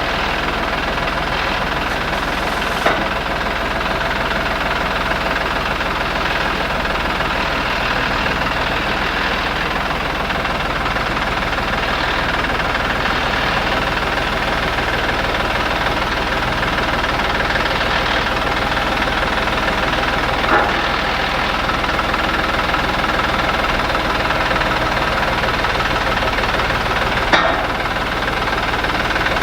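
An engine running steadily, with a few brief sharp clanks.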